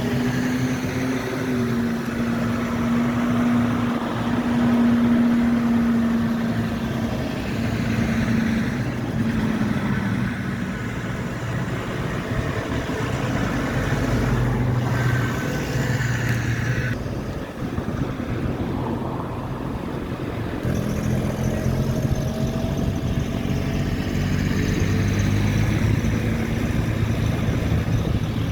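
Engines of vehicles on a tractor run, tractors, cars and lorries among them, running and passing one after another, their engine notes rising and falling.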